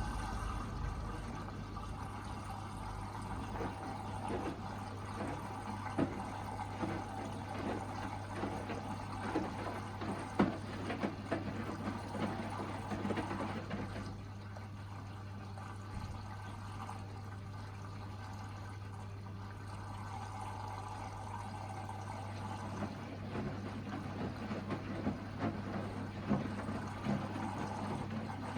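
Hoover VHD 9163 ZI front-loading washing machine in its final rinse: water running and sloshing inside the drum over a steady low hum, with scattered small knocks. It goes a little quieter for several seconds midway, then picks up again.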